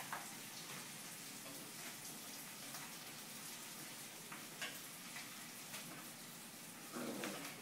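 A puppy playing with a mop: a few faint clicks and a brief muffled scuffle near the end, over a steady hiss.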